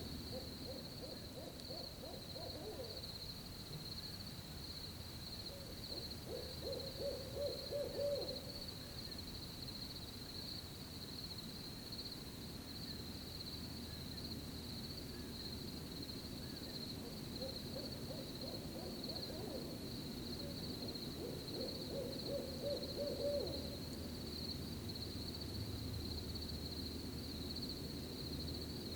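An owl hooting in four bouts of quick, repeated hoots, over a steady high cricket trill.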